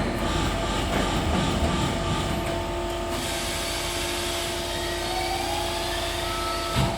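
Zenith 940SC concrete block making machine running: a steady mechanical hum with several high whining tones held over it, and a tone that rises briefly about four seconds in.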